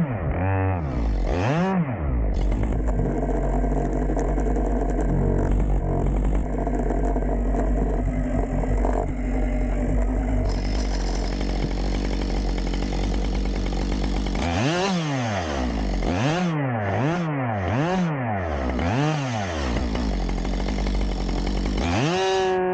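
Husqvarna two-stroke chainsaw held at a steady pitch under load, as in a cut through wood, for the first half. Then it is revved up and down about five times in quick succession near the end.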